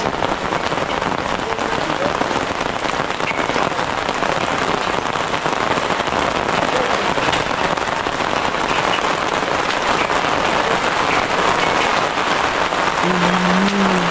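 Steady rain falling on a tarpaulin shelter and the muddy ground around it. A voice is heard briefly near the end.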